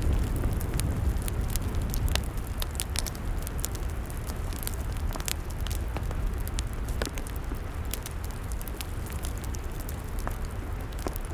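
Log fire crackling, with many irregular sharp pops and snaps over a low steady rumble.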